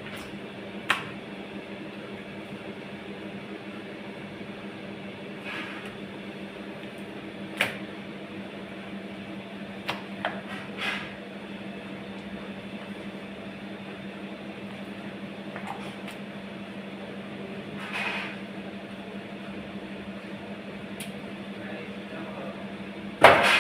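A steady mechanical hum with occasional short knocks, and a louder clatter near the end.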